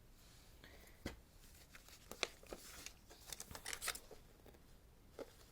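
A paper poster being handled and unfolded: scattered soft paper rustles and crinkles with a few small clicks, busiest in the middle.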